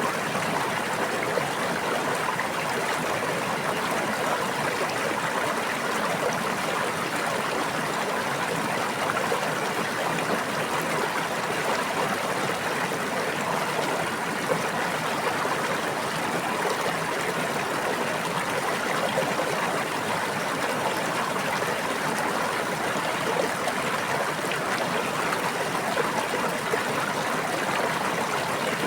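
Water of a small brook flowing and babbling steadily, with no changes or breaks.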